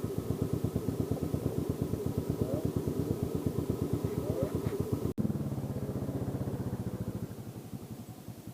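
Yamaha Jupiter Z motorcycle's small four-stroke single-cylinder engine running with a rapid, even pulse. The sound breaks off for an instant about five seconds in, then carries on and grows quieter near the end.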